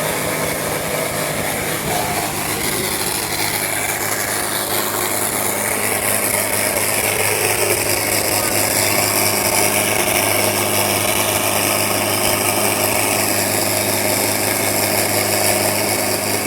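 Diesel tractor engine running hard and steadily, with people's voices over it.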